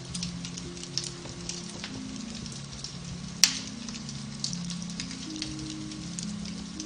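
Beech-wood fire crackling in a fireplace, with scattered small snaps and one sharp, loud pop about halfway through, over soft sustained piano music.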